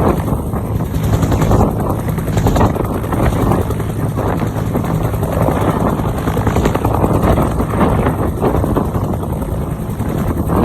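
Bell UH-1 Huey helicopter running, a steady loud noise from its turbine engine and two-blade main rotor.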